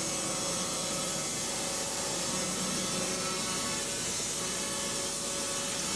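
Wood-Mizer band sawmill's blade cutting steadily through a pine log, a constant hissing run of the blade and engine with a steady tone under it.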